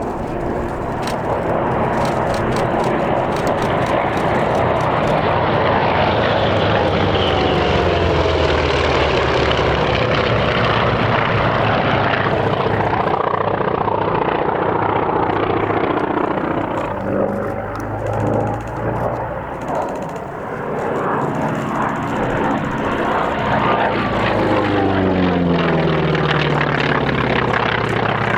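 Piston-engined propeller aircraft flying display passes. The engine note falls in pitch as it goes by, once about a quarter of the way in and again near the end.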